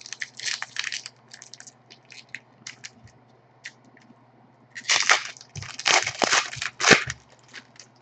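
Hockey card pack wrapper and cards being handled, crinkling and rustling in two bouts, the second longer and louder, over a steady low electrical hum.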